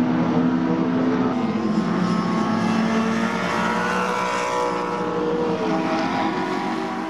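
Racing touring-car engines running hard at speed, several engine notes at once; one drops in pitch about a second and a half in as a car goes past.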